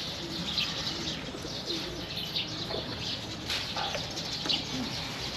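Birds calling: scattered short high chirps and a few low, dove-like coos.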